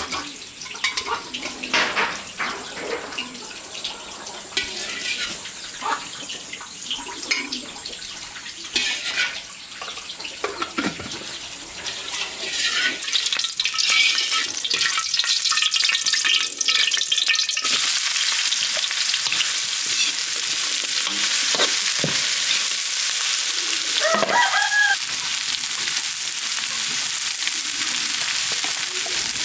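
Scattered clicks and knocks, then a steady sizzling hiss that starts suddenly about two thirds of the way in. Over the hiss, a rooster crows once near the end.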